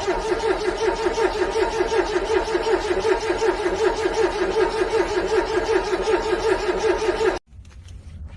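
Car starter motor cranking a cold engine, with a rhythmic pulsing as the engine turns over without catching. The cranking runs for about seven seconds and then cuts off abruptly near the end: a failed cold start in freezing weather.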